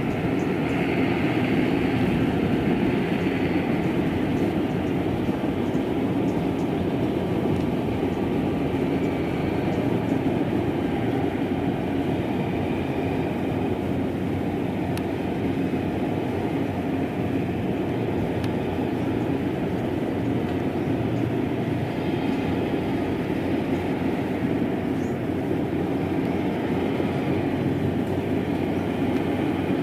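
Rice combine harvester running, a steady, unbroken mechanical drone of engine and machinery.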